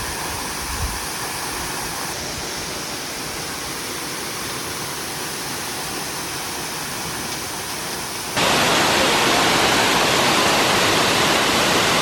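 Steady rushing of fast-moving water, with no distinct events. It jumps suddenly louder about eight seconds in.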